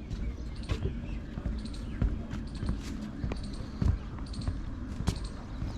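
Footsteps thudding irregularly on an elevated walkway.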